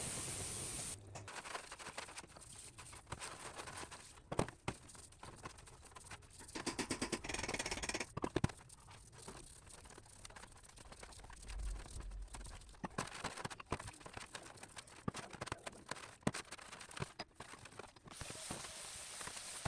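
Workshop handling sounds: irregular clicks, taps and scraping of small metal parts, with a denser stretch of scraping about seven seconds in. A steady hiss, like spraying or compressed air, runs at the very start and starts again near the end.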